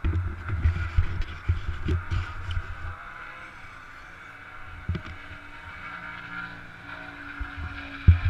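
Motocross bike engine running steadily, with dense low thumps and knocks on the camera in the first few seconds and again near the end.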